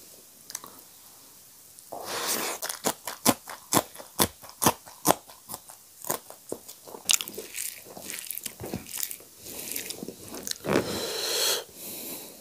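Close-miked mouth sounds of a person eating saag bhat, rice mixed with cooked leafy greens, by hand: wet chewing and a rapid run of sharp lip smacks starting about two seconds in, with a longer, noisier stretch near the end.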